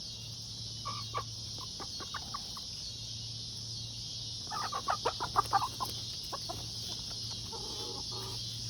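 Backyard poultry clucking in short calls, with a quick run of louder clucks about halfway through, over a steady drone of crickets.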